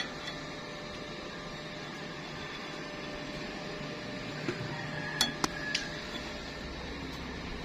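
Steady low hum with a few short, light clinks about two thirds of the way in.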